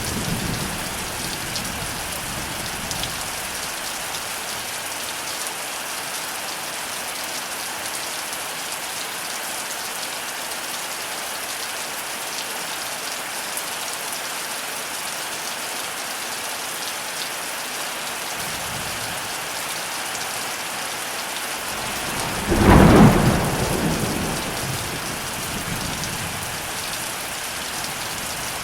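Heavy rain falling steadily in a thunderstorm. A rumble of thunder fades out at the start, and a loud thunderclap breaks in about three-quarters of the way through, its rumble dying away over a couple of seconds.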